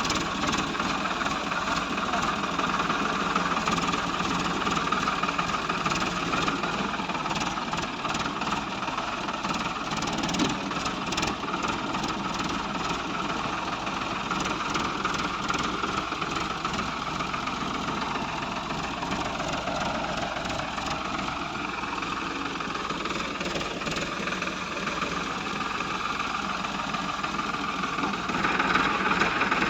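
A heavy vehicle's engine running steadily, growing louder near the end.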